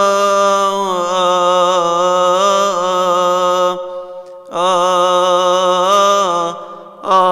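Solo male voice chanting a Coptic Orthodox hymn in long melismatic phrases, each note held with wavering ornaments. The voice breaks off for a breath about four seconds in and again near the end.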